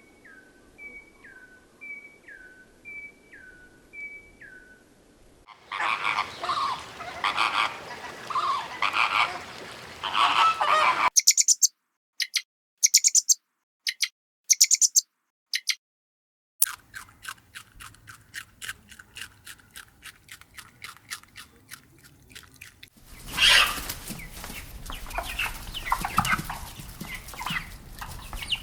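A string of different bird calls, one after another. First a falling whistled note repeated about once a second, then a burst of noisy fowl calls, a few short high chirps with silences between them, a fast train of clicking calls, and loud noisy fowl calls again near the end.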